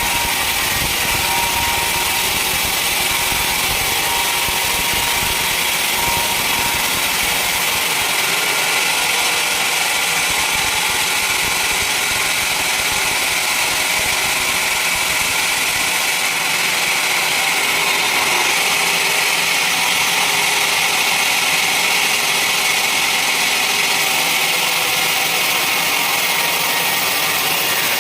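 A sawmill's saw running steadily.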